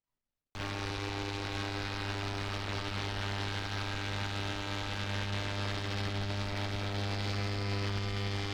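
Electrical shop equipment switched on and running with a steady mains hum, a deep drone with many overtones, starting suddenly about half a second in.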